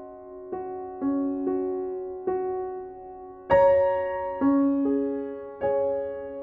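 Slow, gentle piano music: single notes and chords struck about once a second and left to ring out, the loudest chord about three and a half seconds in.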